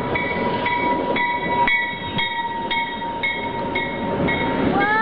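Passenger train arriving at a platform, its bell ringing steadily about twice a second over a continuous high-pitched squeal from the train. A child's high, rising squeal starts right at the end.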